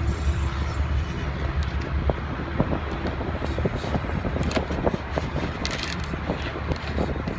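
Outdoor street background: a steady low rumble of traffic and wind on the microphone, with scattered small clicks and rustles close by.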